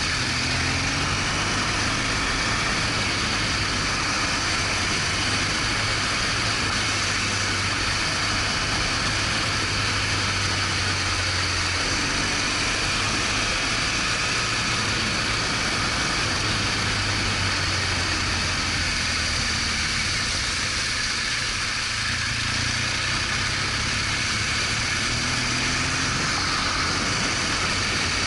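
BMW R1200GS Adventure's flat-twin boxer engine running at a steady speed under way, with a constant hiss of wind and road noise over it.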